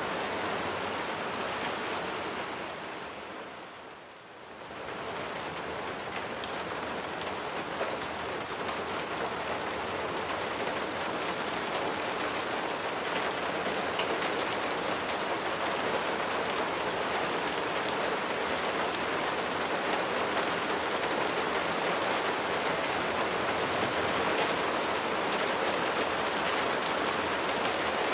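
Steady rain falling on surfaces, a dense even hiss with scattered drop ticks; about four seconds in it fades down briefly and swells back.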